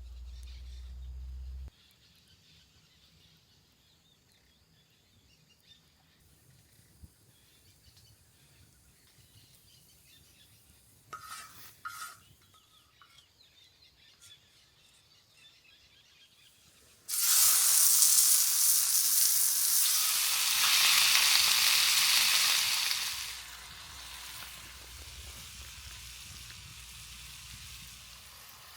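A large skillet over a campfire bursts into a sudden loud sizzle a little past halfway through, which eases to a softer steady sizzle after about six seconds. Before it, the sound is mostly quiet, with a couple of short sharp sounds about eleven seconds in.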